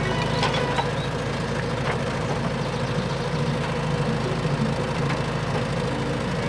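Heavy vehicle engine idling steadily: a continuous low rumble with a few faint clicks.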